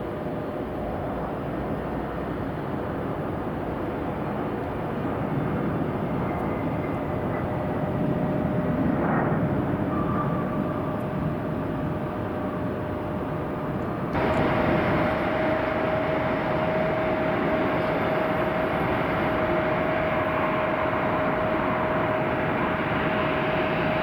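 Jet airliner engines running: a steady rumble with a held whine. About fourteen seconds in the sound jumps suddenly louder and brighter, and the whine grows stronger.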